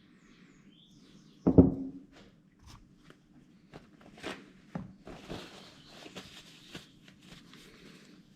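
Handling noises from working on a greased motorcycle speedometer drive: one loud knock about a second and a half in, then scattered small clicks and a rustle, over a faint low steady hum.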